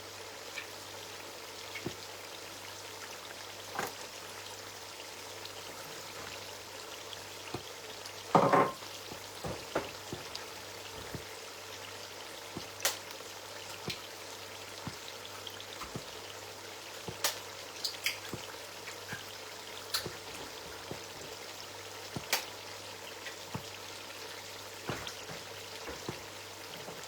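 Eggs being cracked: scattered sharp taps of shells against a bowl, with one louder knock about eight seconds in, over a steady sizzle of a stew frying in the pot.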